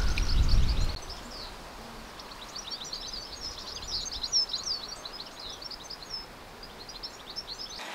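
Small birds chirping in quick, overlapping twitters, with a low rumble during the first second.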